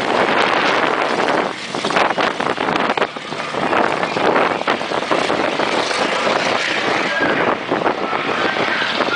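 Several race car engines running loud and rough at the start of a race, the noise swelling and dipping as the cars pass.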